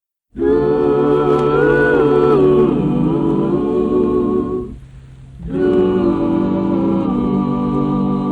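Music: wordless vocal harmony, voices holding sustained chords that shift in pitch. It starts abruptly just after the start, drops away briefly about halfway through, then comes back.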